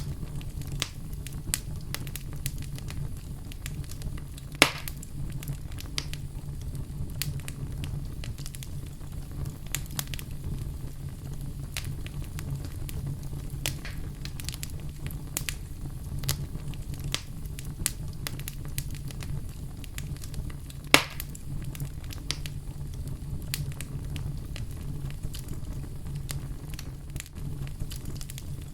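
Fire in a fireplace crackling steadily, with many small crackles over a low steady hum. Two much louder pops stand out, one about four and a half seconds in and one about two-thirds of the way through.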